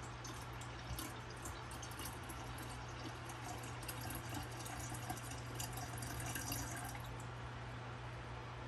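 Water being poured into an electric kettle, a light splashing trickle that thickens for a few seconds and stops near the end.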